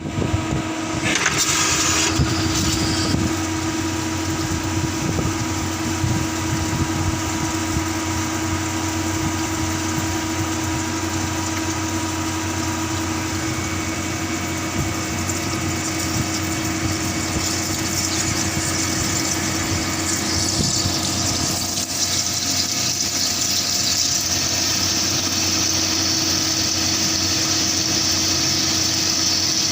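CNC machine running a heavy-duty drilling cycle: a steady machine hum with constant tones. A high hiss joins about two-thirds of the way through.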